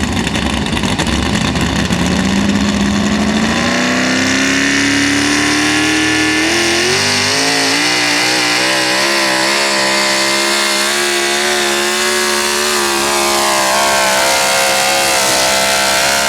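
National Sportsman class 4x4 pulling truck's engine under full load on a pull: the revs climb steadily over the first several seconds, hold high with a wavering pitch, then fall away near the end. The engine is brand new, with about 20 minutes of run time on it.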